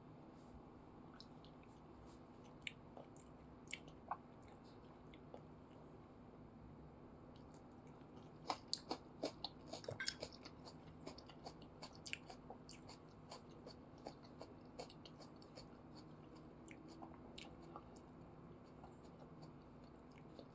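Close-miked chewing and biting of chicken satay: scattered wet mouth clicks and smacks, densest a little before halfway through.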